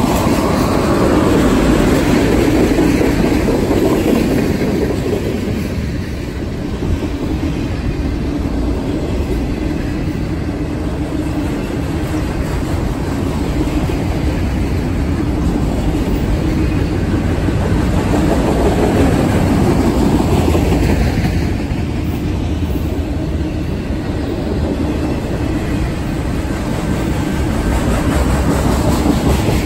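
Freight train cars rolling past, first tank cars and then enclosed autorack cars: a continuous rumble of steel wheels on rail that swells and eases as cars go by.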